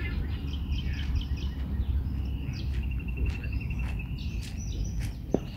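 Birds chirping and calling, with one fast, even trill about three seconds in, over a steady low rumble.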